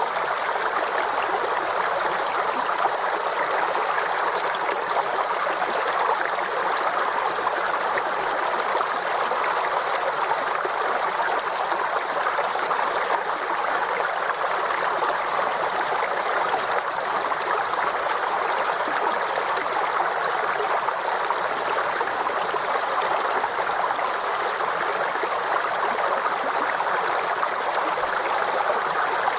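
Forest stream flowing steadily, water running and trickling over stones.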